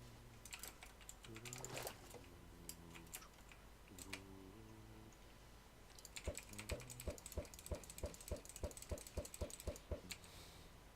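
Faint scattered clicks, then a steady run of sharp clicks at about four to five a second for several seconds, over a faint low hum.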